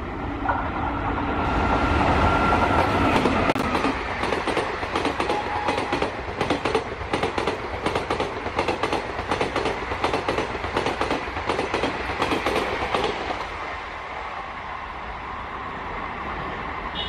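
Express passenger train hauled by a WAP-5 electric locomotive passing at speed. A rush of noise peaks as the locomotive goes by, with a high steady tone for about three seconds near the start, then rapid clickety-clack of the coach wheels over rail joints, fading away near the end as the train recedes.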